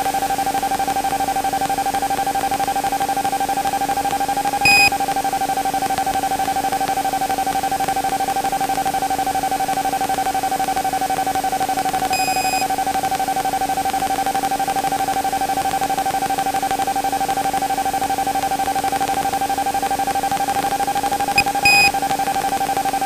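Steady whine on a light aircraft's intercom and radio audio feed, drifting slightly in pitch, with short electronic clicks or beeps three times.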